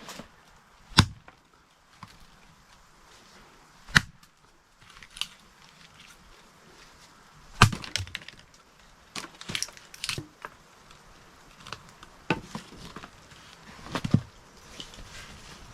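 A dozen or so sharp knocks and cracks at irregular intervals, some single and some in quick clusters, the loudest near the start and in the middle.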